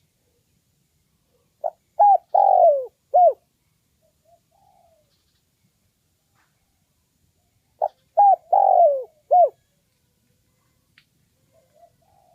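Spotted dove cooing: two calls about six seconds apart, each a phrase of four notes with a longer, drawn-out third note.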